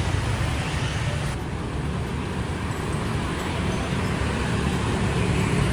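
Busy street traffic running steadily: a continuous low rumble of passing vehicles.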